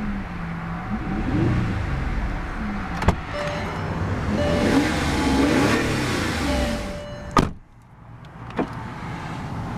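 Volkswagen Phaeton's 6.0-litre W12 engine running and being revved, its pitch rising and falling a few times. A sharp click comes about three seconds in, and near seven and a half seconds the engine sound cuts off abruptly after another click, leaving a much quieter background.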